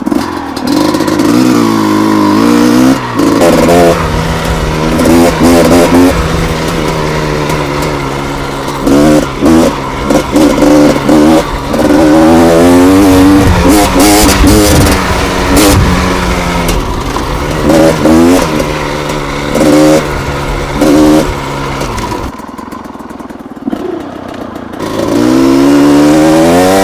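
Gas Gas EC250 two-stroke enduro motorcycle engine being ridden, revving up and dropping back again and again with bursts of throttle. It falls to a lower, quieter note for a few seconds near the end, then revs up once more.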